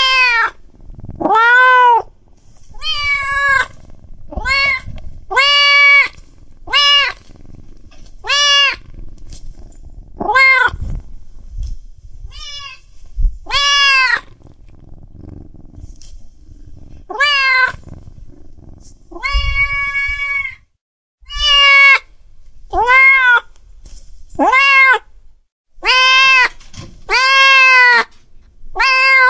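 Domestic cats meowing over and over, about seventeen separate meows a second or two apart, each rising and then falling in pitch. One call about two-thirds of the way through is longer and steadier than the rest.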